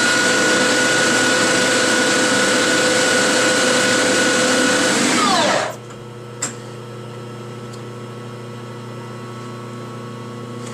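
Metal lathe spinning at about 2,000 RPM while a 4130 chrome-moly steel tube is friction-welded: a loud, steady whine with a rubbing noise. About five and a half seconds in the lathe is shut off and the whine falls quickly in pitch as the spindle spins down. A quieter steady hum and a single click follow.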